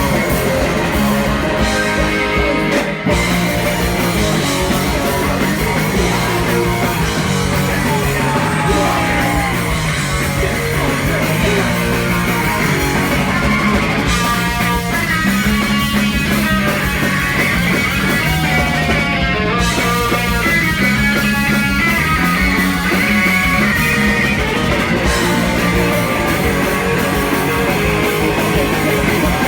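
Punk rock band playing live and loud: electric guitars, bass and drums with singing, and a brief break in the playing about three seconds in.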